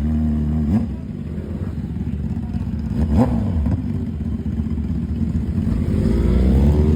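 Motorcycle engine running and being revved. Its pitch sweeps up briefly about a second in and again around three seconds, then climbs once more near the end.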